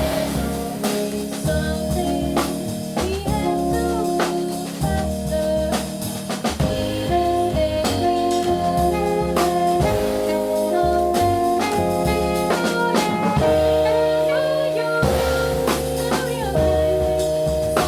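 A jazz quartet playing, with alto saxophone, keyboard, double bass and drum kit: held melodic lines over a walking bass, and busy drum and cymbal strokes.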